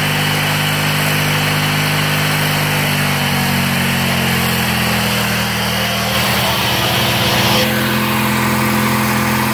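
Briggs & Stratton 14 HP opposed-twin engine of a Bolens lawn tractor running steadily, its speed rising slightly about three seconds in.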